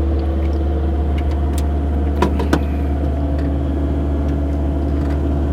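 Excavator's diesel engine running steadily at a constant pitch, heard from inside the cab, with a couple of light clicks about two seconds in.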